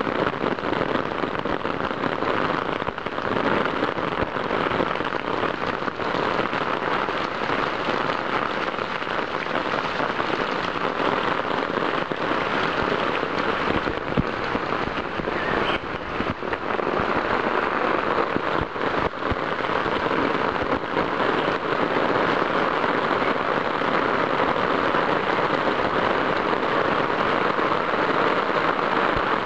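Heavy rain falling, a dense steady hiss with scattered close taps of drops, recorded through a plastic waterproof camera bag.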